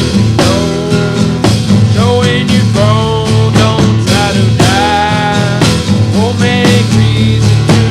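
Psychedelic rock music: steady low bass notes under a lead part that slides and bends between notes.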